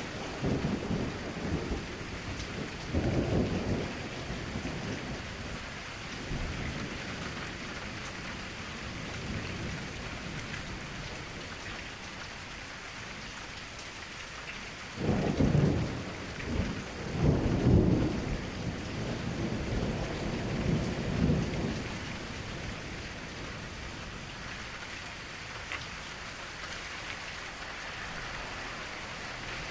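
Steady rain with rolling thunder: a rumble about three seconds in, and a longer, louder spell of thunder rolls from about the middle of the stretch, over a constant hiss of rain.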